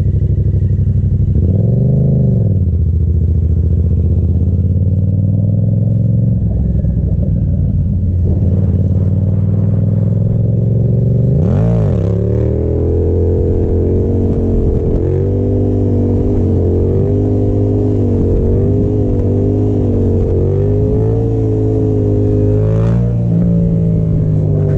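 Yamaha FZ-07's parallel-twin engine running under a rider, with two quick rev blips about 2 and 12 seconds in, then held at a steadier pitch that swells up and down slightly.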